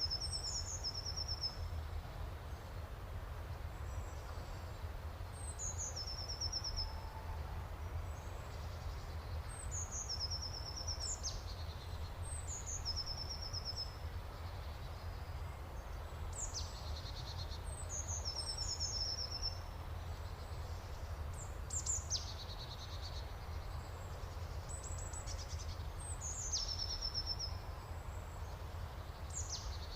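A songbird singing the same short phrase again and again, every few seconds: a quick falling note or two, then a brief high trill. A steady low rumble of ambient noise runs underneath.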